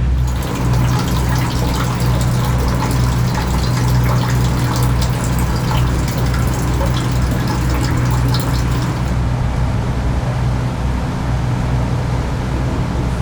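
Water rushing and splashing over a steady low hum, as of sea water along a moving ship's hull with the engines running. The splashy hiss thins out about nine seconds in while the low hum carries on.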